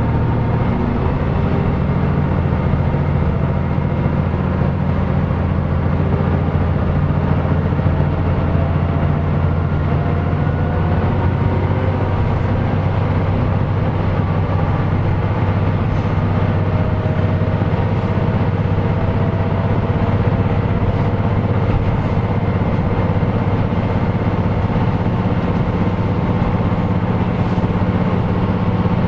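KiHa 125 diesel railcar heard from inside the cabin, running along the line: a steady low diesel engine drone with the rumble of wheels on the rails. The engine note shifts about a second in, and a faint whine climbs slowly in pitch.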